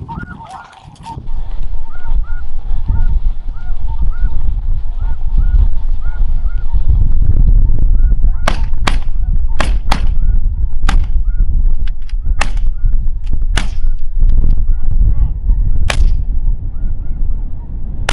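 Snow geese calling, a short call repeated about twice a second, over heavy wind rumble on the microphone. A series of sharp clicks or knocks comes in the second half.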